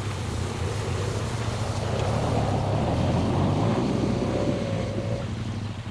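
Motorcycle engine running at a steady low speed, with wind noise on the microphone. A rushing noise swells in the middle and fades about five seconds in.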